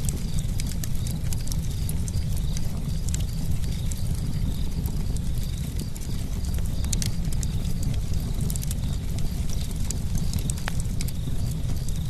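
Campfire crackling: frequent, irregular sharp pops and snaps over a steady low rumble of the burning flames.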